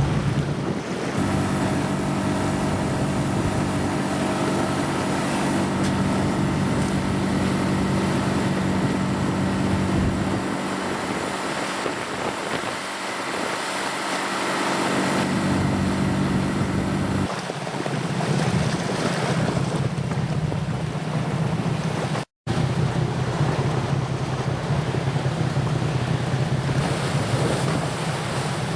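Wind on the microphone and sea waves, with a boat engine running steadily through the first half or so. A brief dropout cuts the sound about two-thirds of the way in.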